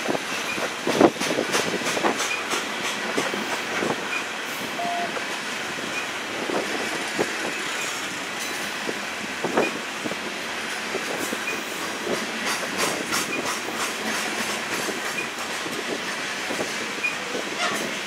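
Loaded coal cars of a Union Pacific freight train rolling past: steel wheels running steadily on the rails with frequent clicks and clanks, a sharp knock about a second in and another about halfway through.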